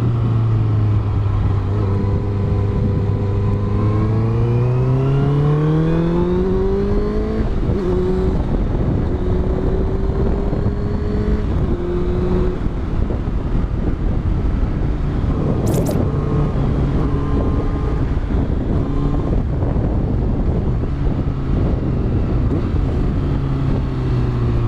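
Honda CBR650F inline-four engine with a Yoshimura exhaust, heard from onboard under riding wind. The engine holds steady, then revs up smoothly about four seconds in as the bike accelerates, and settles into a steady rush of wind and engine for the rest, with one short click partway through.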